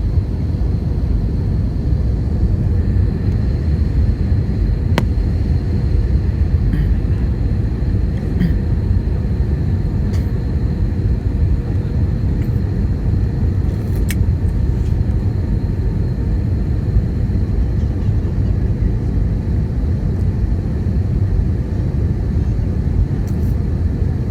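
Steady low roar of an airliner cabin on final approach, the engines and rushing air heard from inside the plane, with a faint high whine and a couple of small clicks.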